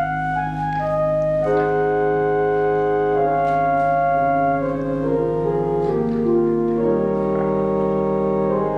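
Organ playing slow, sustained chords that change every second or so, in a church service prelude.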